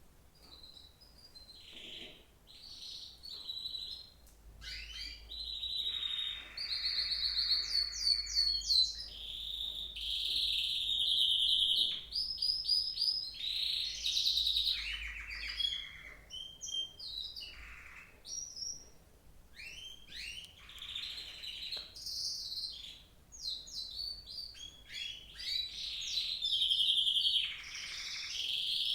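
Songbird singing a long, varied song of quick high chirps, rapid trills and sliding whistles with short pauses between phrases.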